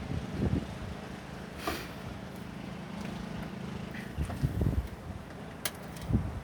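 Snowblower engine running steadily, with wind gusts buffeting the microphone and a sharp click near the end.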